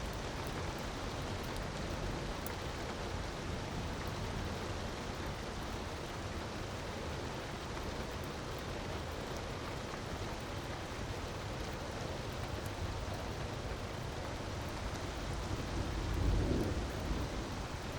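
Steady rush of a waterfall mixed with the faint snaps of a crackling wood fire. A low rumble swells briefly near the end.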